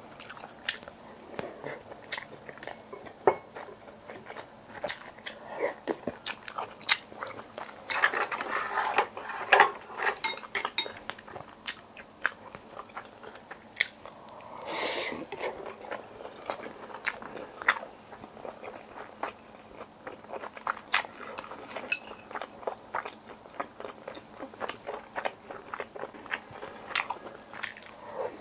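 Close-miked eating: chewing and biting, with crunching and many short, sharp clicks throughout, and two louder, longer stretches about eight and fifteen seconds in.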